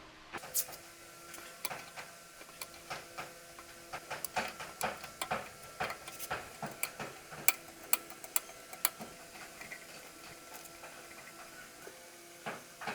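Irregular light clicks and taps, bunched at several a second in the middle and sparser toward the end, over a faint steady hum.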